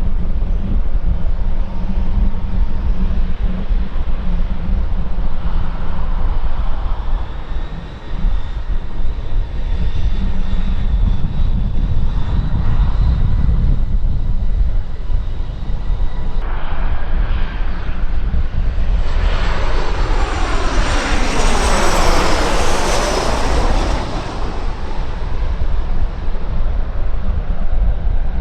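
Aircraft engines rumbling steadily, then an aircraft passing close about 19 to 25 seconds in with a loud, phasing hiss that sweeps down and back up before fading.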